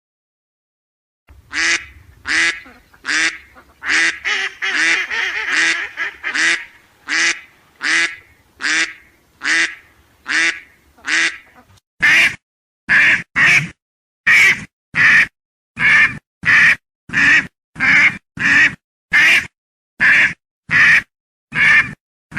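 Duck quacking in a long series of single quacks, about two a second. About halfway through, the quacks turn sharper and evenly spaced with dead silence between them.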